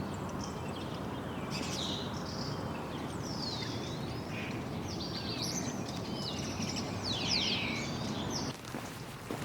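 Several birds singing and calling, with quick high chirps and notes sweeping downward, over a steady rushing background noise. Near the end the background drops abruptly.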